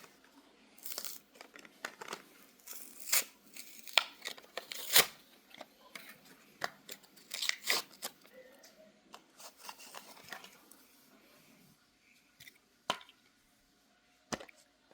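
A doll's retail packaging being opened by hand: tearing and crinkling with sharp snaps and clicks for about ten seconds, then a few isolated clicks.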